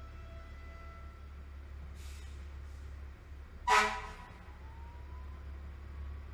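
Fire apparatus responding: a siren tone slowly rising in pitch, one short loud horn blast a little past halfway, then the siren winding up again, over a steady low rumble.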